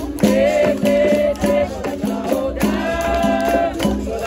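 Capoeira roda music: a voice singing two held phrases over the twang of berimbaus, with the caxixi shaker rattling and regular percussion strokes.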